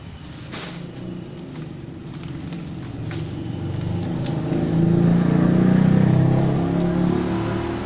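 A motor vehicle passing close by, its engine growing louder to a peak about five to six seconds in and then fading.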